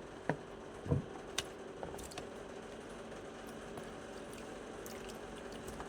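A pet bird bathing in water, giving a few faint small splashes in the first couple of seconds, over a steady faint hum.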